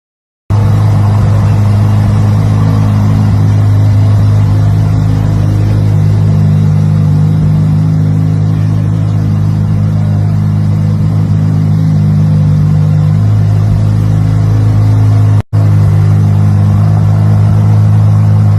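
Straight-piped Ferrari twin-turbo V8 exhaust running loudly at a steady speed, with a deep, even drone. It drops out for an instant about fifteen seconds in.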